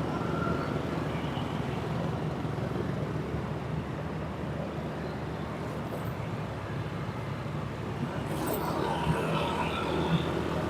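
Road vehicle's engine running steadily under a haze of road and traffic noise during a drive, with two small knocks near the end.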